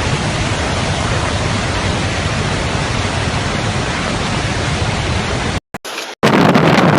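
A steady, even rushing noise, like heavy rain or rushing water. About six seconds in it cuts off briefly, then louder, gusty wind buffets the microphone.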